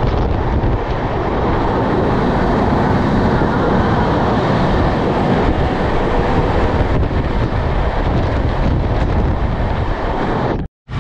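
Commuter train running past station platforms, heard from its open doorway: a loud, steady rumble of wheels and wind rushing over the microphone. It cuts off abruptly near the end.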